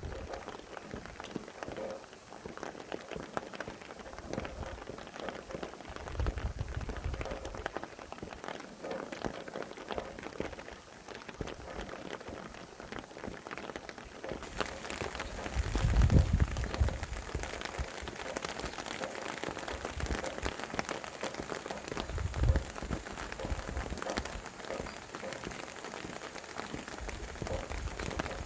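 Steady rain falling, with a dense patter of individual drops that grows heavier about halfway through. Low rumbles of wind gusting come three times, the strongest in the middle.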